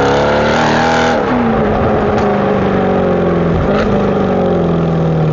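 Mercedes C63 AMG's 6.2-litre V8 running loud under load, its pitch rising and falling in the first second, then holding a steady note.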